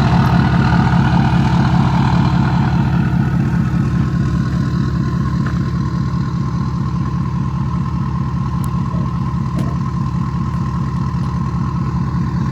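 Straight-piped 6.7 L diesel pickup engine idling with an even low rumble and a faint steady whine above it. It gradually gets quieter.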